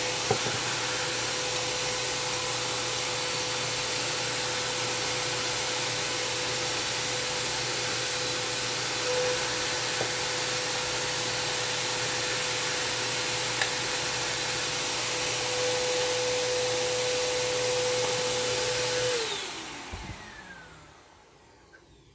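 Small electric fan motor running steadily with a loud rush of air and a constant whine, then switched off near the end, its whine falling in pitch as it spins down.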